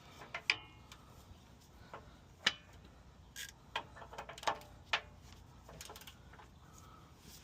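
Scattered sharp metallic clicks and clinks, some ringing briefly, as a socket and breaker bar are fitted onto a 30 mm track bar bolt.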